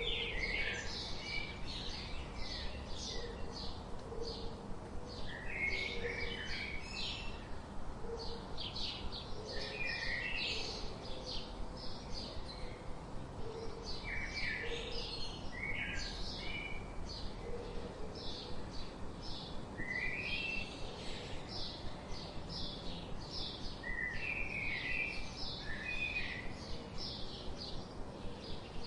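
Wild birds calling, with rapid high chirps repeating several times a second throughout. Lower chirped phrases break in every few seconds.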